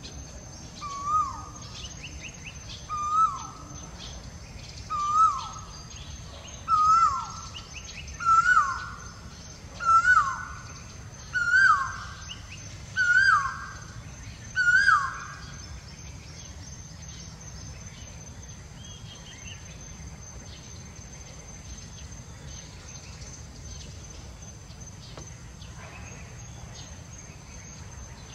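A bird calling a series of about nine loud notes, evenly spaced, each a short rise then a quick fall in pitch. The notes climb in pitch and loudness before stopping about fifteen seconds in. A steady high insect drone runs beneath.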